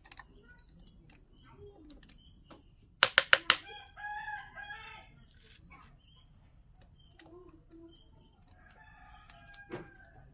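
A quick run of about five sharp, loud knocks, then a chicken calls for about a second; fainter, shorter calls follow near the end.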